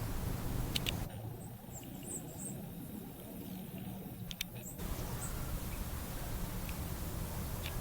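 Outdoor background noise with a steady low rumble, broken by a few short, faint high chirps or clicks.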